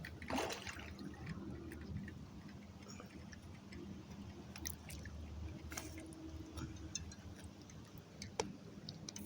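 Faint, irregular clicks and ticks from a fishing reel and tackle being handled while a hooked fish is played, with faint river water in the background and a brief louder rustle just after the start.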